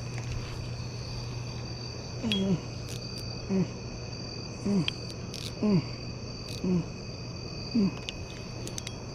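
Evening insects, such as crickets, chirring steadily as several high, even tones. From about two seconds in, a short low call that slides down in pitch repeats roughly once a second, louder than the insect chorus.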